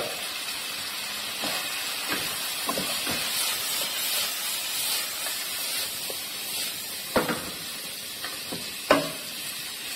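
Chicken frying in a nonstick pan with a steady sizzle, and a spatula stirring it, with a couple of sharp knocks of the spatula against the pan near the end.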